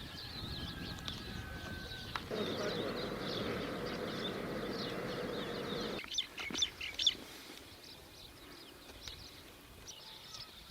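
Small birds chirping and twittering throughout. Under them, a steady low background noise runs for a few seconds and cuts off suddenly about six seconds in.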